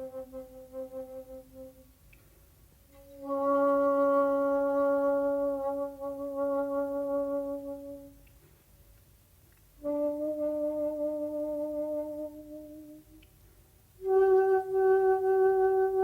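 Solo shakuhachi playing long held notes with pauses for breath between them. A note fades out, then two sustained tones follow with gaps between them. About fourteen seconds in comes a louder, higher note with a pulsing vibrato.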